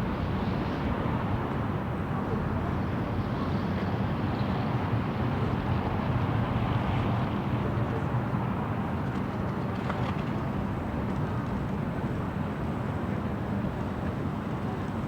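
Steady city street ambience: a constant low rumble of traffic with an indistinct murmur of people's voices.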